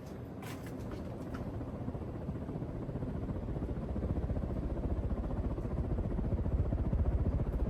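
52-inch Hunter Summit ceiling fan running on high speed: a fast, low pulsing whoosh from the blades that grows steadily louder, with no bearing or motor noise to be heard.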